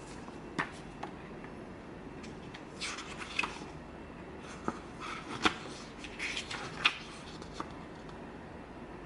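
Hands handling hard plastic parts and packaging: scattered clicks, taps and short rustles, busiest in the middle with a few sharper clicks.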